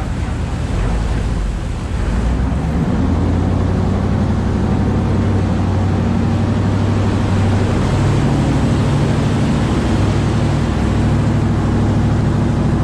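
Canal passenger boat's engine running loud and steady over a rushing hiss, growing louder about two seconds in and holding that level.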